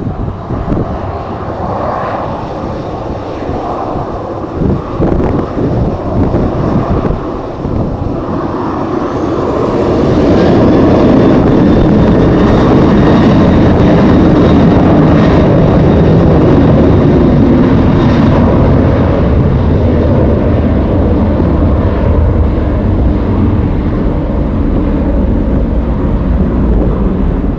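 Jet airliner engines, growing to a loud, steady noise about ten seconds in as the aircraft passes near. Wind gusts buffet the microphone.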